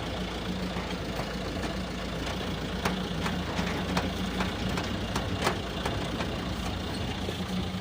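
Safari vehicle's engine running with a steady low hum, with frequent short clicks and knocks over it.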